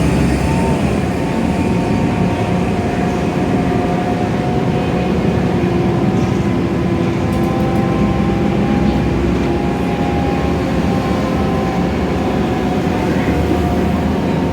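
Inside a Scania K320iA CNG city bus on the move: a steady hum of the engine and drivetrain with road noise, and a few whining tones that drift gently up and down in pitch.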